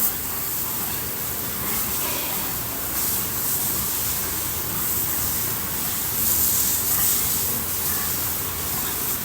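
Steady hiss of water spraying from a hose to wash pigs down.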